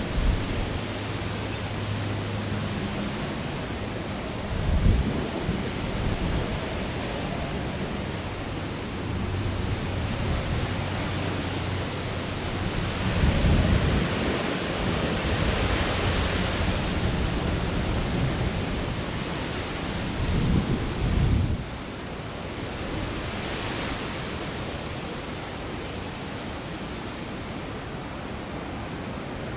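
Strong gusty wind blowing over the microphone: a steady rushing hiss, with heavier gusts buffeting it in low rumbles a few times, the last cutting off suddenly.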